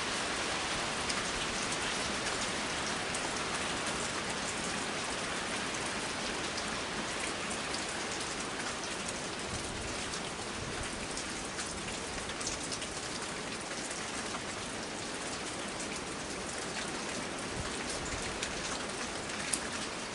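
Heavy rain falling steadily, a dense hiss of drops striking hard surfaces, with one sharper drip or tap near the end.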